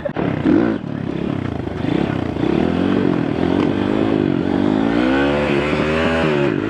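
Dirt bike engine running hard and held up in the revs, its pitch wavering up and down as the throttle is worked.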